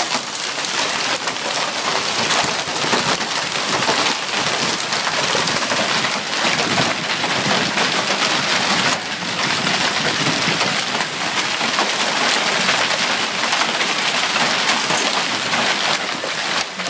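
Heavy hailstorm with rain: a steady, dense clatter of many hailstones striking surfaces.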